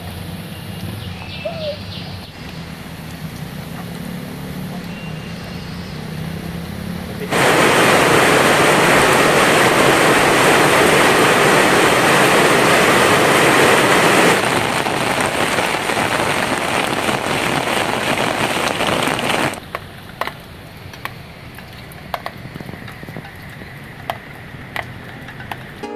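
Heavy rain pouring down, a loud even hiss that starts abruptly about seven seconds in and cuts off sharply about twenty seconds in. Before it there is a quieter rain sound under a low steady hum. After it lighter rain continues, with scattered sharp ticks of falling drops.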